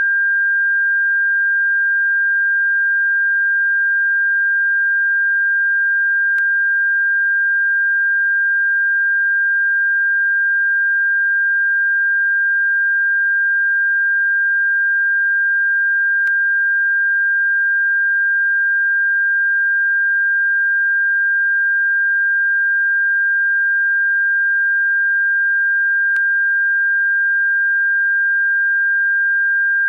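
A steady, unchanging pure electronic tone at a fairly high pitch, generated as a bird-repellent sound. There are faint clicks about every ten seconds.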